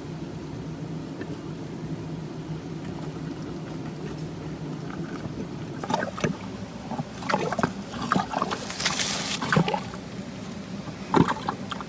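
Water splashing and sloshing with scattered knocks over a steady low hum, as a catch is hauled up toward the surface. The splashes and knocks start about halfway through, and the loudest splash comes near the three-quarter mark.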